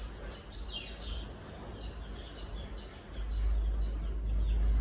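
Small birds chirping, many short high notes repeated over a steady outdoor background hiss. A low rumble swells about three seconds in.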